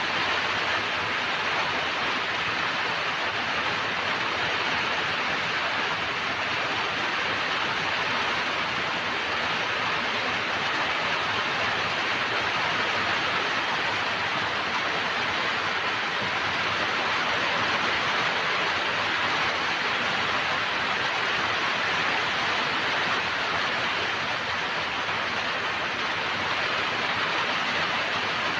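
Steady rain, an even unbroken hiss that neither rises nor falls, with no separate drops standing out.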